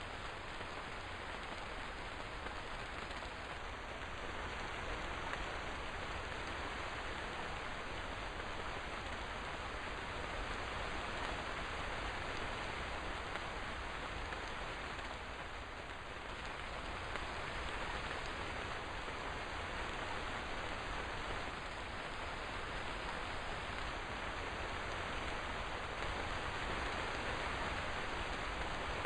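Steady rain falling, an even hiss of drops that swells slightly near the end.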